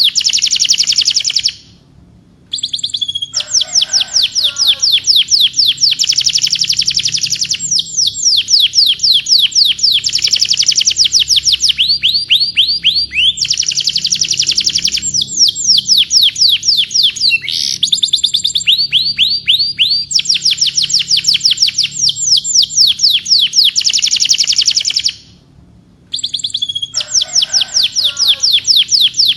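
Canary singing a long, loud song of rapid trilled rolls: fast series of repeated down-sweeping high notes that change speed from phrase to phrase. There is a brief pause near the start and another near the end.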